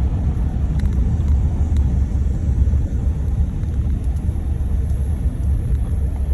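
Steady low rumble of a moving vehicle, heard from inside the cabin: road and engine noise.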